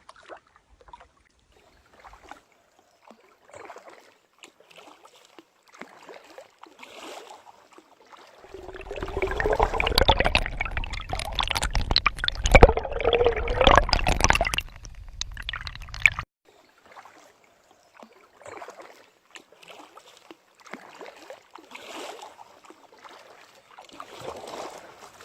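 Water gurgling and trickling around a paddled kayak, with faint scattered splashes. In the middle comes a much louder stretch of deep rumbling and sloshing lasting about eight seconds.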